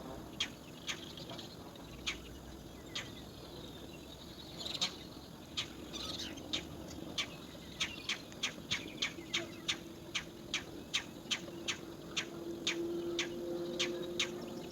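Roller nestlings calling from the nest hole: short sharp calls, a few scattered at first, then coming steadily about three a second from about six seconds in.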